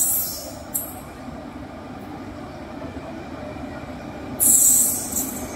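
Electric-locomotive-hauled passenger train approaching, a steady rumble of the train running on the rails. Two short, loud bursts of high hiss stand out, one at the very start and another about four and a half seconds in.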